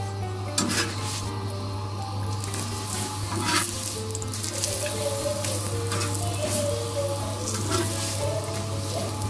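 A paratha frying on a hot iron tawa, sizzling steadily, with a few short clatters as it is turned; background music plays with it.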